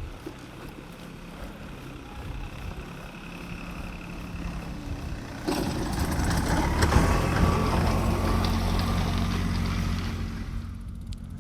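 A vehicle engine running with a steady low hum, which comes in suddenly and loudly about five and a half seconds in.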